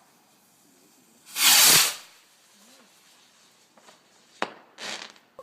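Homemade firework going off with a loud hiss lasting under a second, followed later by a sharp crack and a second, shorter hiss near the end.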